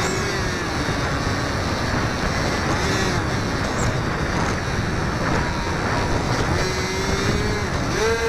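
Electric motor and propeller of a HobbyZone Firebird Delta Ray RC plane whining, its pitch dropping and fading out about a second in as the throttle eases, coming back faintly later and rising sharply near the end. Heavy wind rush on the microphone throughout.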